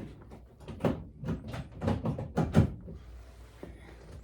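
A quick run of knocks and thuds, about eight within two seconds in the middle.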